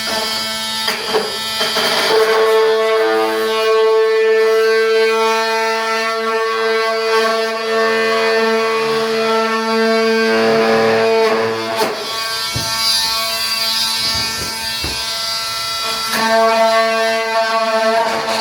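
Electric power tool cutting into wall trim to undercut it for flooring: a steady, loud buzzing tone that runs for several seconds, breaks off around the middle and starts again near the end.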